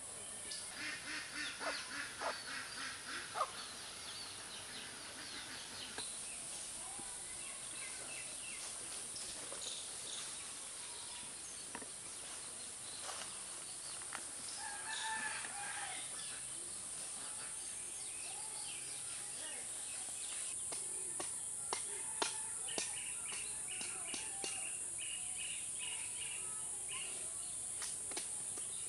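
Outdoor ambience with a steady high insect whine. A bird calls in a rapid series of notes near the start, the loudest sound here. Scattered sharp clicks and short chirps follow later on.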